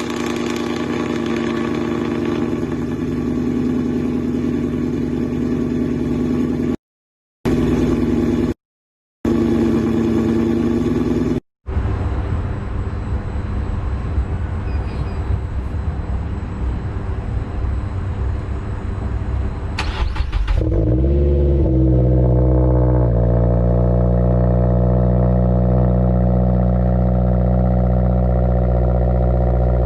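Car engines running just after cold starts, several clips cut together with brief gaps of silence: first a steady-running engine, then a rougher, noisier one. About two-thirds of the way through, another car engine cranks, catches and revs up and back down in a quick sweep, then settles into a loud, steady idle.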